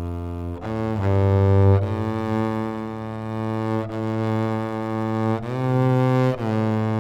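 Low bowed string instrument in gugak (Korean traditional music) playing long held notes, moving to a new pitch every second or two and sliding into some of them.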